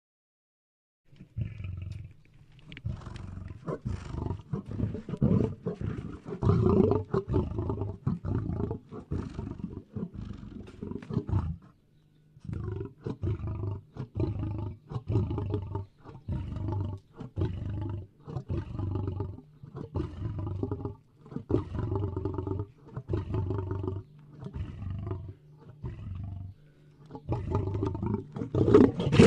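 Lion roaring: a long run of low, pulsing roars and grunts in bouts, starting about a second in, with short breaks near twelve, twenty-one and twenty-six seconds in.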